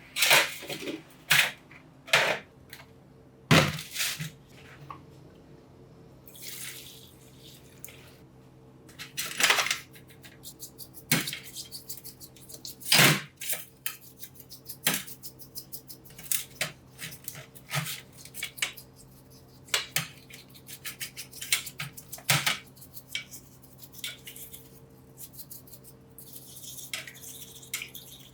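Metal parts and tools clinking and knocking irregularly on a workbench as they are handled, over a faint steady hum.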